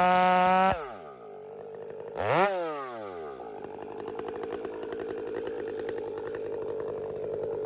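Chainsaw engine at full throttle, let off less than a second in so it winds down to idle. A quick blip of the throttle comes a little over two seconds in, then it settles into a steady idle.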